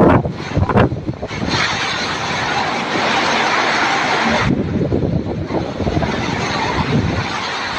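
Heavy rain and strong wind. Gusts buffet the microphone in the first second or so, then there is a steady, dense rushing hiss.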